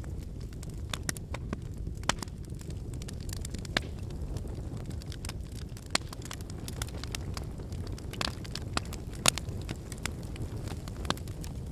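Wood fire burning with a steady low rumble of flames and scattered crackles and pops from the firewood. The sharpest pop comes about nine seconds in.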